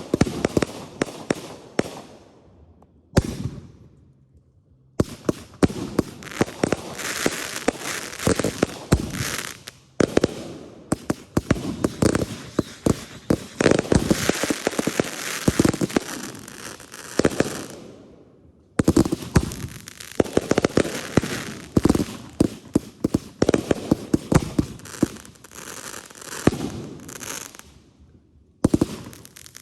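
Consumer fireworks going off: rapid runs of sharp bangs and crackling, in several stretches separated by brief quiet gaps.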